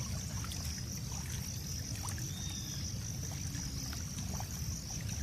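Steady outdoor background noise: a low rumble with a steady high-pitched hum above it and a few faint ticks.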